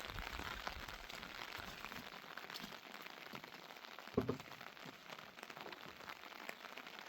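Heavy rain falling steadily, with a dense patter of small drop impacts. About four seconds in there is one short, louder sound.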